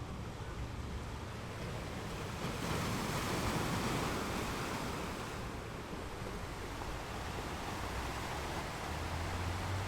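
Sea waves breaking on rocks: a continuous rushing wash that swells into a louder surge a few seconds in and then eases back.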